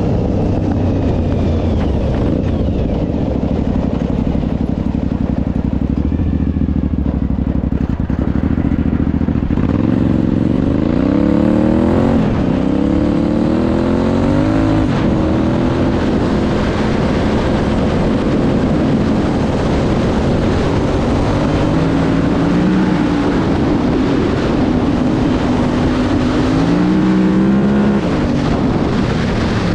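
Suzuki TL1000S 90-degree V-twin in a homemade quad, running hard under way; its pitch climbs in three quick runs about a third of the way in, like shifting up through the gears, and rises again near the end.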